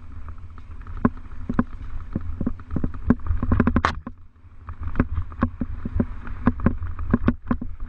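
Mountain bike rattling over rough ground: a quick, irregular run of clicks and knocks over a low rumble of wind on the microphone, with a short high squeak about four seconds in.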